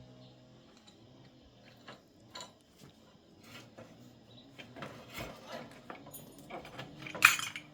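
Irregular clicks and knocks of hand tools and metal parts being handled, growing busier in the second half, with one loud clatter near the end.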